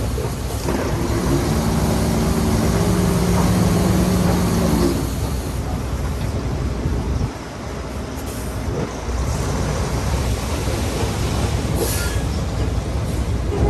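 Shantui crawler bulldozer working: the diesel engine and tracks give a steady pitched whine for about the first five seconds, then a rough, heavy rumble.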